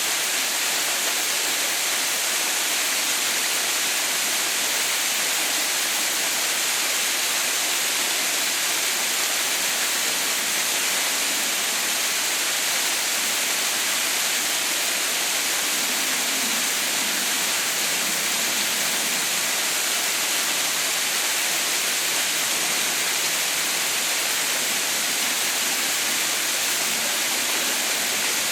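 Steady, unbroken rush of water falling at Haha no Shirataki (Mother's White Waterfall), a waterfall partly frozen into an icefall, with a bright, hissy sound.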